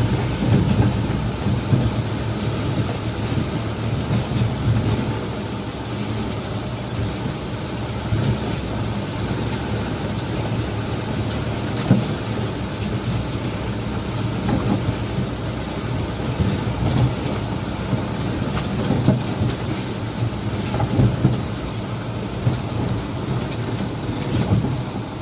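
Dump truck running: a steady low engine rumble with scattered knocks and rattles.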